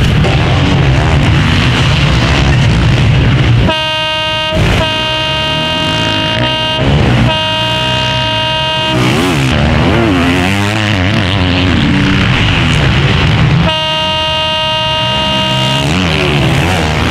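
Motocross bikes racing, their engines revving up and down. This is broken twice by a long, steady, horn-like tone held for a few seconds each time: once about four seconds in, with two short breaks, and again near the end.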